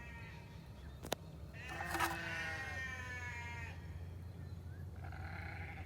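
Goats bleating: one long wavering bleat from about two seconds in, and a shorter one near the end. A single sharp click about a second in.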